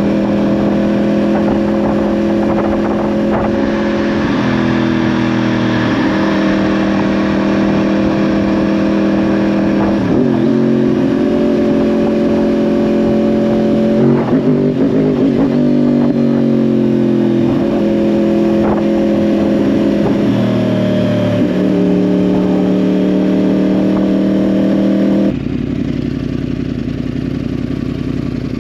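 A 2010 Yamaha R1's crossplane-crank inline-four, breathing through a Yoshimura exhaust, running under way. The engine note holds steady pitches and steps up and down between them several times. Near the end the engine note cuts out abruptly, leaving a quieter low rumble.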